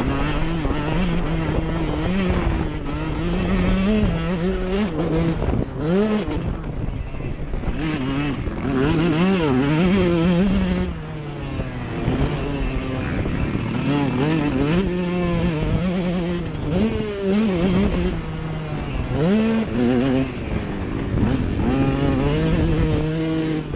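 Motocross dirt bikes racing, their engines revving hard, with the pitch climbing and dropping again and again as the throttle opens and closes.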